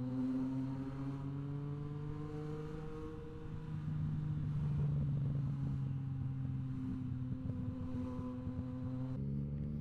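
Yamaha MT-09 SP three-cylinder engine through an aftermarket Blackwidow exhaust, running under steady throttle while riding. The pitch rises slowly for the first few seconds, then holds, and steps abruptly near the end.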